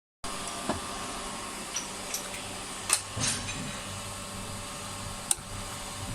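A few sharp metallic clicks and taps from hand tools at work on an engine's valve gear during a valve clearance adjustment, over a steady low hum.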